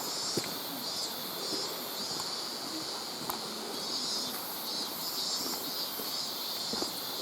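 Cicadas buzzing in a pulsing chorus that swells and fades about twice a second. A few sharp clicks and taps come from the camera's loose monitor rattling and from footsteps.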